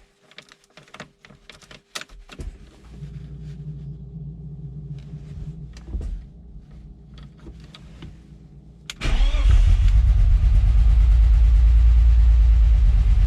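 BMW M50B20TU 2.0-litre inline-six being started for the first time after standing dry for about two years, on fresh oil: a few clicks, then the starter cranks steadily for about six seconds before the engine catches about nine seconds in and runs loudly and steadily.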